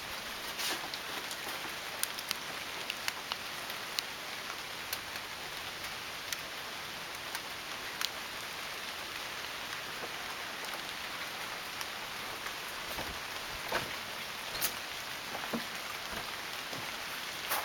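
Steady rain falling, an even hiss with scattered sharp ticks of nearby drops hitting surfaces.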